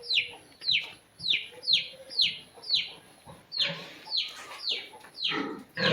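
Short, high-pitched peeps from young animals, each falling in pitch, repeating about twice a second. From about three and a half seconds in they come fuller and lower.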